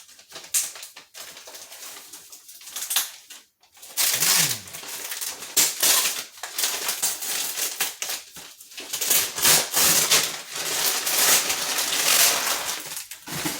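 Tightly wrapped packaging being torn and crinkled open by hand. Light rustling at first, then a dense run of crackling and tearing from about four seconds in.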